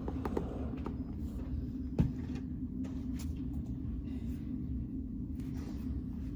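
Steady low rumble of a car's engine and tyres heard from inside the moving car, with a single short click about two seconds in.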